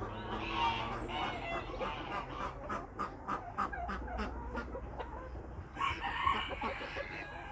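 Chickens clucking and calling, with a run of quick clucks, about five a second, in the middle and louder calls near the end.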